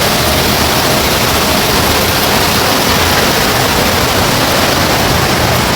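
Floodwater rushing in a torrent, a loud steady noise with no break.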